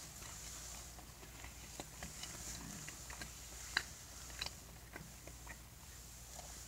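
Faint chewing close to the microphone: soft, scattered wet mouth clicks as food is chewed with the mouth closed, over a steady low hum.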